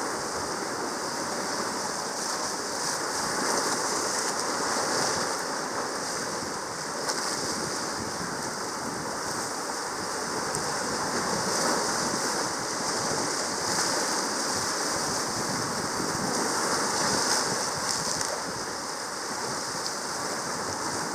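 Steady rushing of sea water, swelling and easing gently in loudness.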